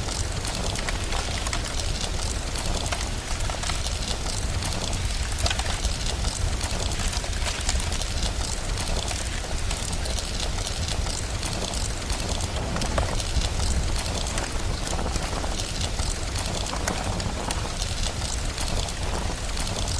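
Steady rain and a crackling fire: a continuous hiss over a low rumble, dotted with frequent short, sharp crackles.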